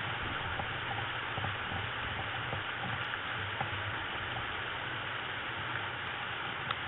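Steady rain falling, an even hiss with a few scattered light ticks of drops, heard through a Ring camera's narrow-band microphone.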